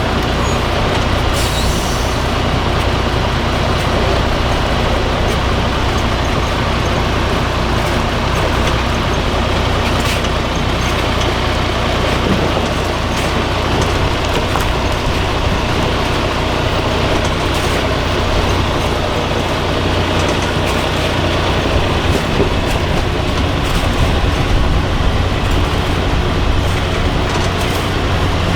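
Diesel engine of a 6x6 MAN off-road trial truck running steadily, with a strong low drone.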